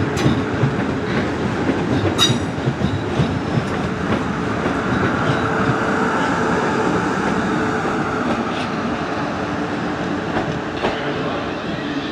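South Western Railway electric multiple-unit train rolling past, its wheels clattering over the rail joints and points, with a steady hum underneath. There is a brief sharp squeak from the wheels about two seconds in, and the sound eases slightly as the train draws away.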